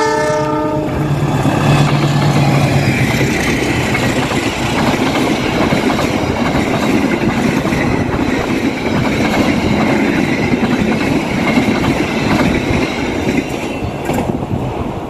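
A diesel-electric locomotive at the head of an express passenger train finishes a horn blast, which cuts off under a second in, while its engine hums past. The carriages then rush by with steady wheel clatter on the rails, which eases off near the end as the train clears.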